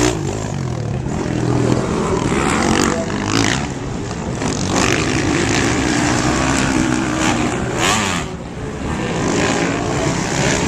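Motocross dirt bike engines running on the track, revving up and down.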